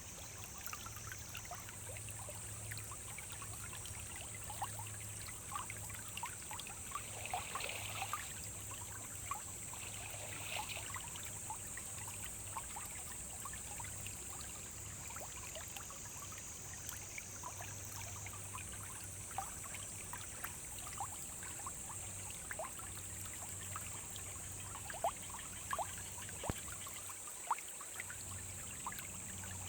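Small forest stream flowing over rocks: steady trickling and babbling water, with many small splashes and drips.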